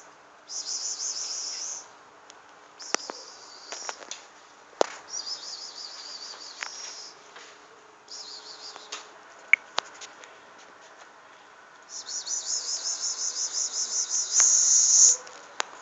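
Repeated bursts of high-pitched, fast-pulsing chirping trills, each lasting one to three seconds, the longest and loudest near the end, with a few sharp clicks in between.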